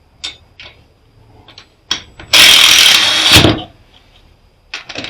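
Sharp metal clanks and knocks from parts of a welder being handled during teardown. In the middle comes one loud, noisy burst lasting a little over a second, the loudest thing heard.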